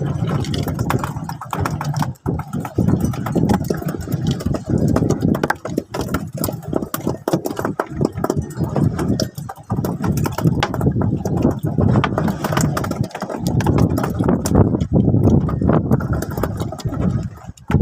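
Fishing boat's engine running steadily, with many irregular short knocks over it.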